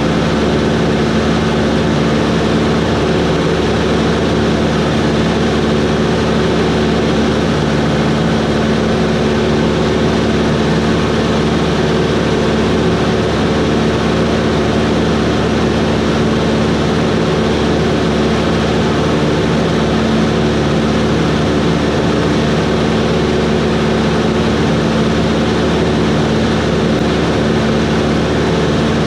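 A Cessna 140's four-cylinder air-cooled engine and propeller running steadily at constant power, with an even, unchanging drone.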